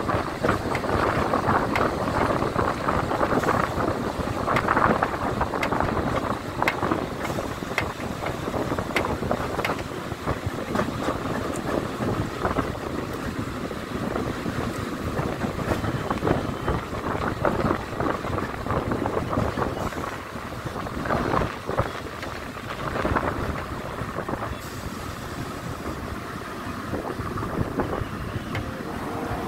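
Mumbai suburban electric local train running, a steady rush of noise with scattered clicks and knocks from the wheels and carriage, and wind buffeting the microphone.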